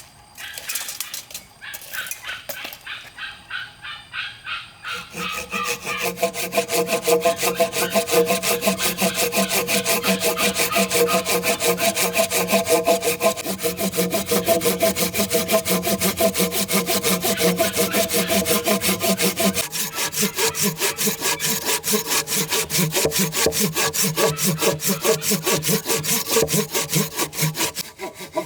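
Saw cutting through wood in fast, regular back-and-forth strokes. It starts about five seconds in, after a quieter, uneven stretch, and keeps an even rhythm.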